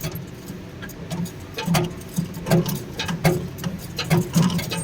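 Indoor playground helicopter ride running: a low pulsing mechanical hum with irregular clicks and knocks.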